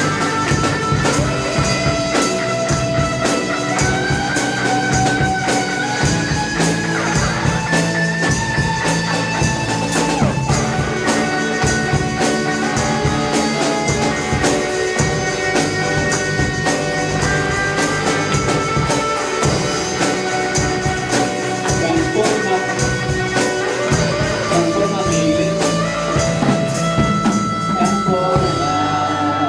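Live church worship band playing an instrumental passage of a praise song, with steady percussion led by a tambourine under held melody notes.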